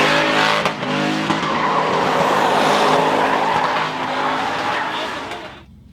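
A car's engine revving hard with tires squealing as it spins donuts or drifts. The sound drops off sharply near the end.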